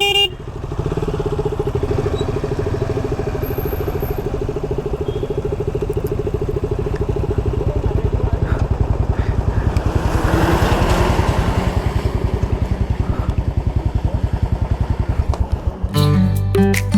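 Motorcycle engine running steadily at low revs with an even pulsing beat, with a swell of wind or road noise about ten seconds in. Music comes in near the end.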